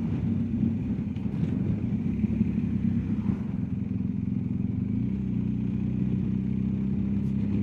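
BMW R1250GS Adventure's boxer-twin engine running steadily under way, with road and wind noise. From about five seconds in, the engine note settles into an even hum.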